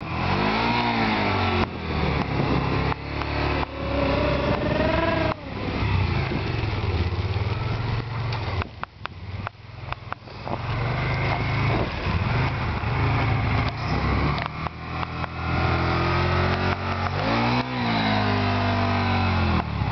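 Can-Am Spyder roadster's engine running, its pitch rising and falling several times as it revs and eases off.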